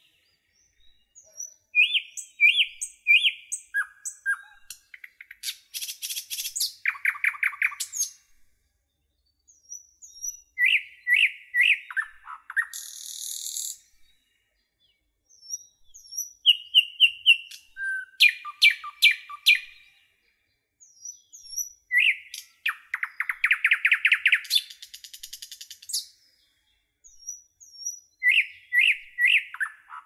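Songbirds singing in short phrases: runs of two or three clear whistled notes, fast trills and high, thin notes, with pauses of a second or two between phrases.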